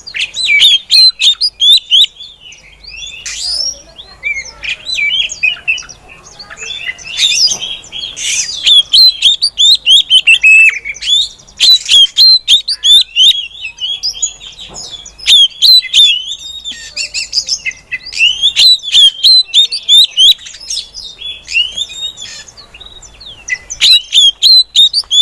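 Female Oriental magpie-robin (kacer) calling in fast runs of short, high chirps and whistles, with a few brief pauses between runs.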